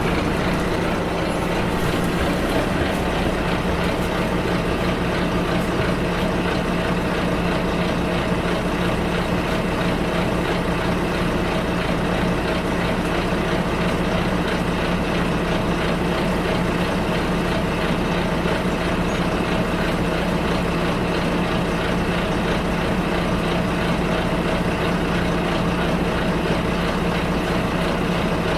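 Bus engine running steadily, heard from inside the bus: a constant hum that holds the same pitch throughout.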